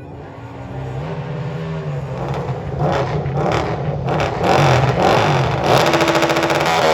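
Drag-racing motorcycle engine revving in repeated throttle blips, its note rising and falling and growing louder, with a few sharp cracks in the second half.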